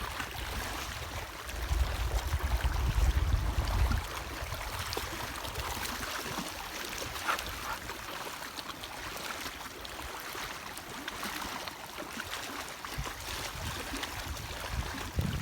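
Wind buffeting the microphone, a low rumble that gusts about a second and a half in and eases after about four seconds, over a steady hiss of lake water lapping.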